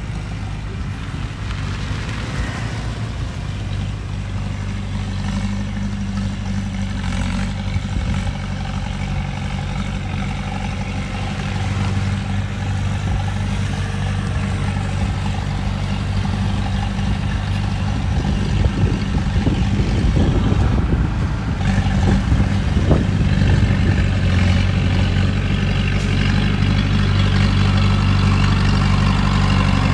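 Heavy diesel earthmoving machinery running steadily and growing louder in the second half, with some knocking and rattling a little past the middle.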